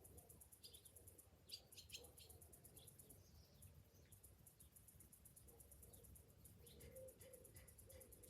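Faint chorus of summer cicadas, a fast, even high-pitched pulsing, with birds chirping over it, in a quick cluster about two seconds in and again near the end.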